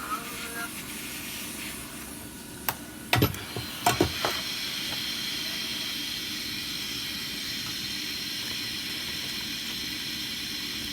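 A few sharp clicks and taps about three to four seconds in, then a steady airy hiss.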